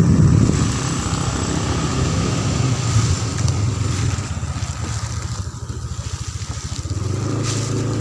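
Motorcycle engine running while being ridden, loudest in the first second, easing off through the middle and settling to a steady, even note near the end.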